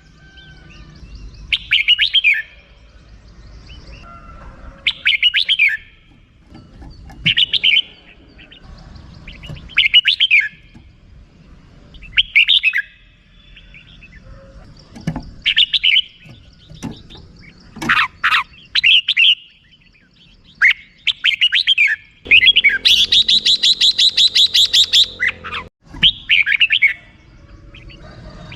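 Red-whiskered bulbul, a cage bird, singing short chirping phrases about every two to three seconds. Near the end it gives a rapid run of repeated notes for about three seconds, the chattering 'rik-rik-rik' call.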